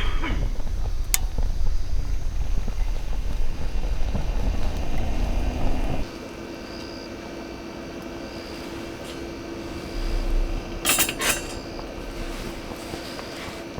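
Cutlery and cookware clinking, with a short cluster of sharp metal clinks about eleven seconds in. A low rumble fills the first six seconds, then gives way to a quieter steady hum.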